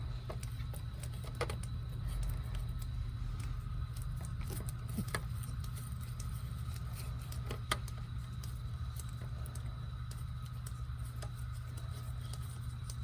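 A few faint metallic clicks from a straight-slot screwdriver turning out the handle screw of a frost-free hose bib, over a steady low hum.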